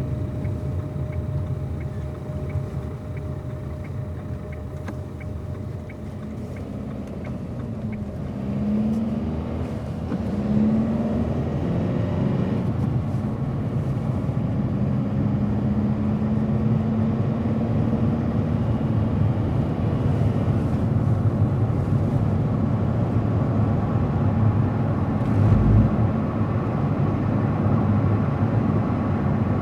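Car engine and tyre noise while driving. The engine note climbs in pitch several times, as through gear changes, then settles into a steady cruise over the continuous road rumble. Near the end there is a single low thump, the loudest moment.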